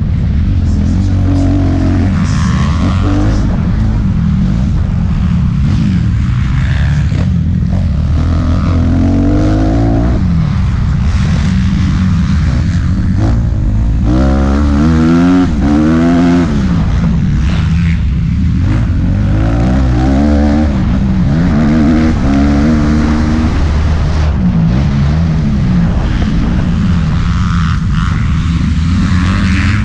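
Motocross bike engine running hard, its pitch repeatedly climbing and dropping as it accelerates through the gears and backs off between sections of the track.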